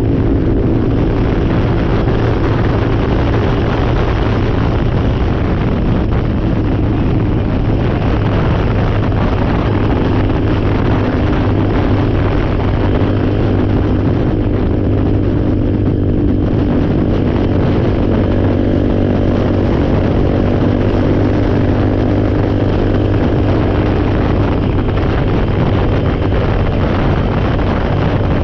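Four-wheeler (ATV) engine running at a steady speed while riding, with wind on the microphone.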